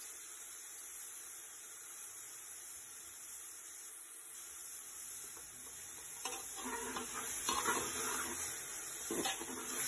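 Onions and masala frying in oil in a large aluminium pot, with a steady sizzle. From about six seconds in, a spatula scrapes and knocks against the pot as the mixture is stirred.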